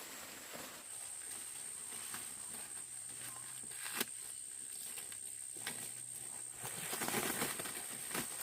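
Dry corn plants rustling and crackling as they are handled, denser near the end, with one sharp snap about four seconds in, like an ear of corn being broken off the stalk. A steady high whine runs underneath.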